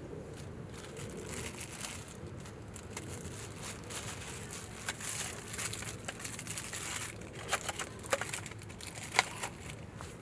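Crinkling and rustling of material being handled, louder around the middle, then a handful of sharp snaps or clicks in the last few seconds, the loudest one near the end.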